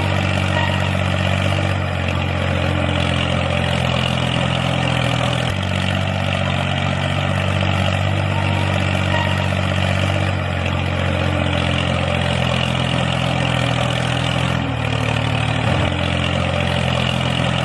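Engine running steadily at a low, even speed. Its pitch shifts abruptly a few times.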